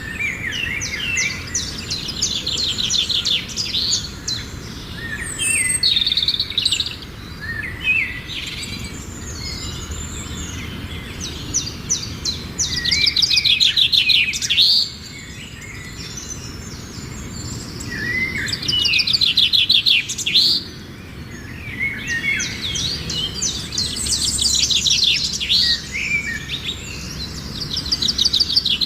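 Songbirds singing: bursts of rapid trilled notes and chirps, repeated every few seconds, with the loudest bouts about halfway through and again toward the end.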